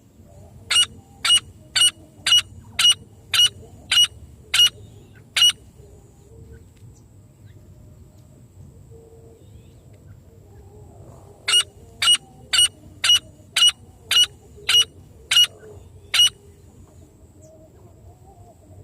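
Francolin (teetar) calling: two series of about nine sharp, piercing notes each, about half a second apart and slowing slightly toward the end of each series, with a pause of several seconds between the series.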